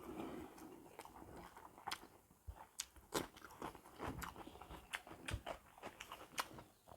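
A person chewing and biting into a meal of buffalo trotters with rice and cucumber salad, with short sharp crunches and smacks at irregular intervals.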